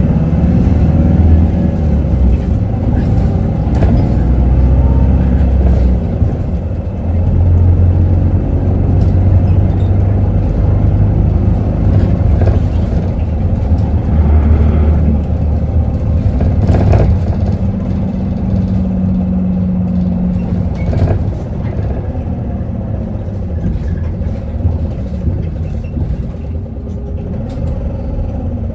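Onboard running sound of a 2019 Isuzu Erga city bus (2KG-LV290N3): the diesel engine and road rumble heard from the cabin. The engine note shifts up and down several times as the bus drives, and the sound is quieter for the last several seconds.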